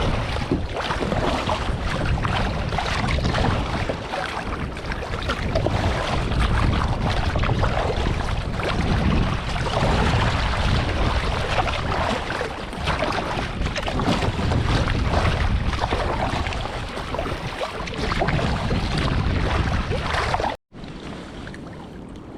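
Wind buffeting the microphone and sea water splashing around a kayak on the open sea. About twenty seconds in it cuts out abruptly, then goes on as a quieter steady hiss.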